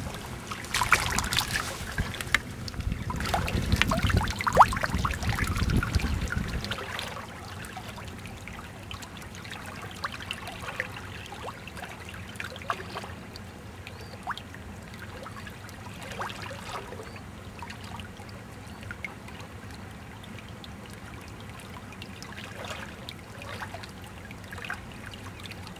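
Shallow salt-marsh water trickling and lapping at the shore in a running current. There is louder low rumbling and splashing for about the first six seconds, then only the faint steady trickle with occasional small splashes.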